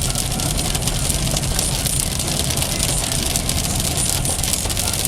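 Heavy storm rain drumming on a car's roof and windshield in dense, rapid ticks, over the steady low rumble of the car, heard from inside.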